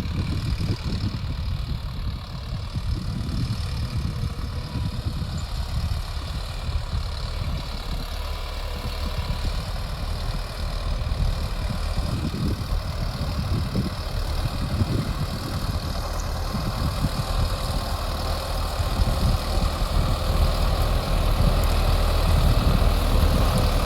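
Sonalika Tiger 65 DI CRDI tractor's common-rail diesel engine running steadily while pulling a cultivator through the soil, growing louder near the end.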